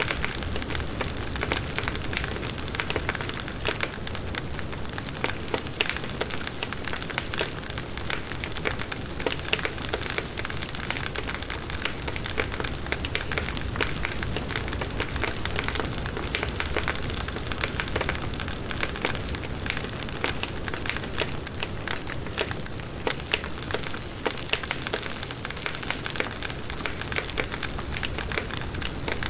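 Firewood burning in a campfire, crackling steadily with many small irregular pops and snaps.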